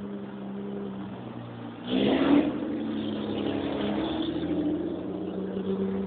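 Toyota Corolla KE30's engine revving hard: a sudden loud surge about two seconds in as the car accelerates, then held at steady high revs.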